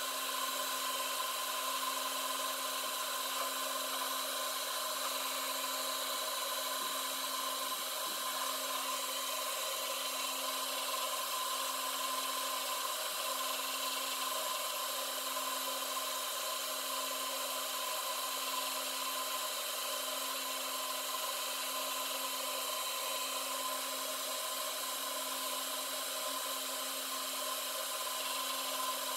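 Metal lathe running steadily through a finishing cut on a bearing end cover: a constant mechanical hum with several steady tones under the rubbing hiss of the cut.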